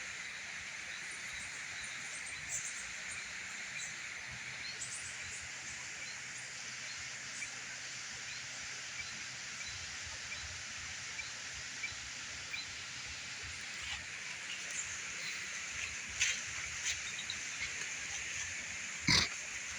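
A steady high hiss of outdoor background with scattered faint ticks. Some short animal calls come in later, the loudest one about a second before the end.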